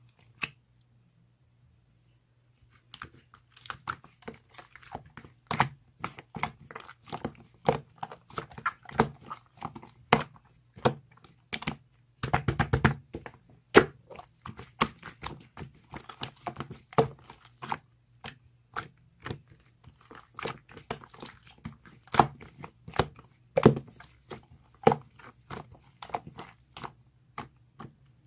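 Slime being squeezed and pressed by hand, giving an irregular stream of sharp sticky pops and clicks, with a quick run of them about twelve seconds in.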